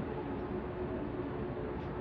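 A train running nearby: a steady rumble with a low, even hum.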